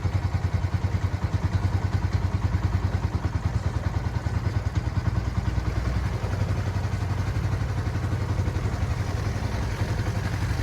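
Long-tail boat engine running steadily, with a fast, even low pulse.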